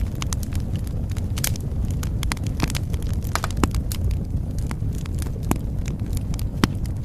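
Wood fire in a fireplace crackling, with frequent sharp pops at irregular moments over a steady low rumble of the flames.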